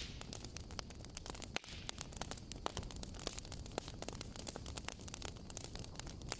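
Bonfire crackling: a steady hiss of burning with many irregular sharp pops and snaps.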